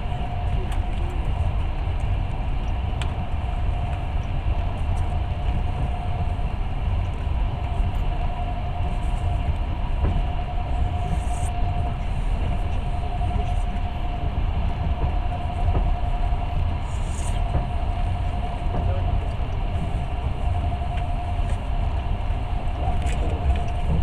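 Passenger train running at speed on the rails: a steady low rumble with a steady whine over it.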